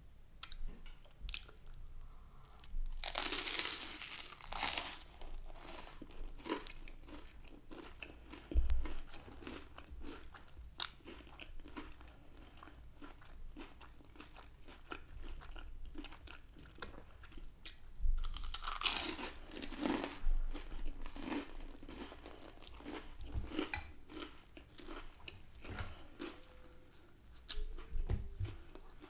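Close-up eating sounds of crusty toasted garlic bread topped with creamy pasta: two loud crunchy bites, about three seconds in and again near the middle, each followed by chewing with many small wet mouth clicks.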